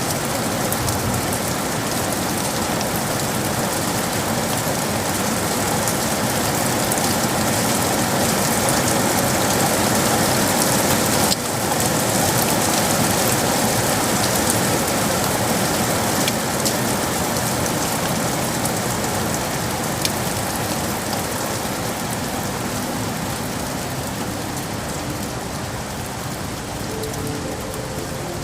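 Steady, dense rain falling in a city, an even hiss with scattered drop ticks; the level dips briefly about eleven seconds in.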